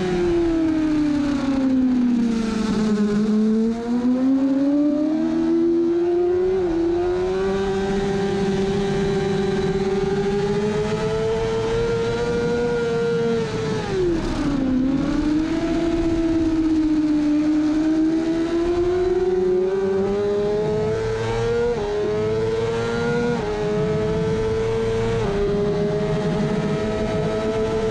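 Kawasaki ZX-6R inline-four engine at race pace, heard from on board: the note falls over the first few seconds and again sharply about fourteen seconds in as the bike slows for corners, and rises as it accelerates out, with a few short steps in pitch near the end. Wind rush on the microphone runs under it.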